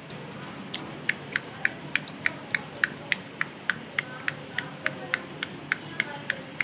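Pet parrot giving a rapid, evenly spaced series of short, sharp chirps, about three to four a second, starting under a second in.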